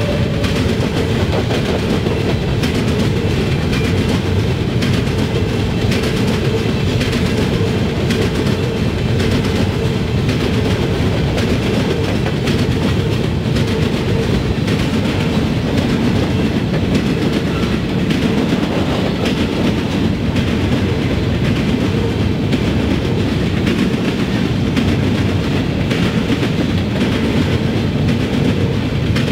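Covered hopper cars of a freight train rolling past in a steady rumble, their steel wheels running on the rails and across the interlocking's crossing diamond.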